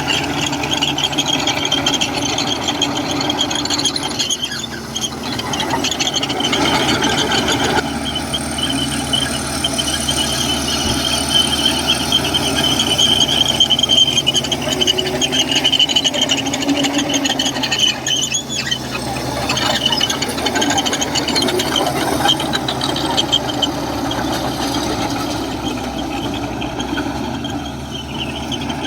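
Komatsu bulldozer working, its diesel engine running steadily under a long, high-pitched squeal from its steel tracks, loudest in the middle.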